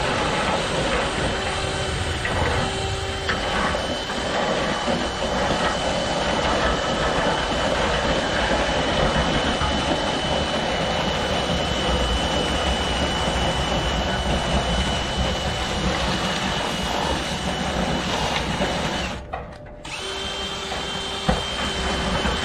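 Power drill running steadily, spinning a cleaning rod through a dryer vent duct, with a constant whine. It stops for about a second near the end, then starts again.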